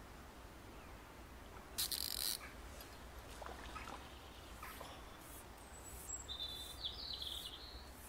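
Wild songbirds chirping faintly, with thin high whistled notes a little after halfway. A brief loud rustle comes about two seconds in, and fainter short brushing sounds follow.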